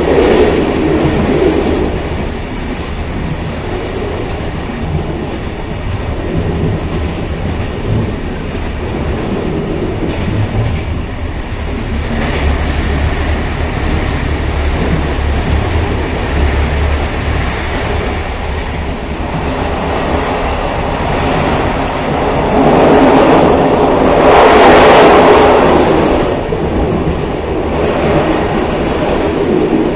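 Train running on rails, heard as a steady rumble with clickety-clack of the wheels, swelling louder for a few seconds about three quarters of the way through.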